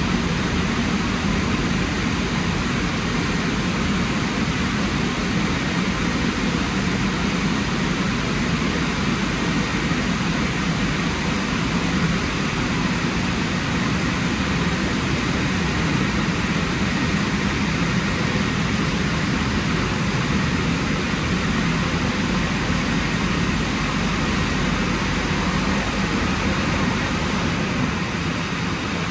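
Drying blowers of a WashTec SoftCare Pro rollover car wash running steadily, a constant rushing air noise with a low hum underneath.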